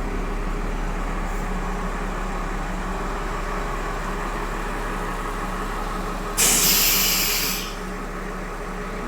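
Diesel train running steadily with a low hum, then a sudden loud burst of compressed-air hiss, as from the air brakes, about six seconds in, lasting over a second.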